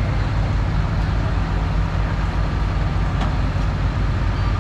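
Antique tractor engine running steadily, with a short click about three seconds in.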